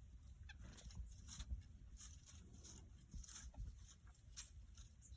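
Small wild birds close to the phone: faint, scattered short ticks and chirps over a low rumble.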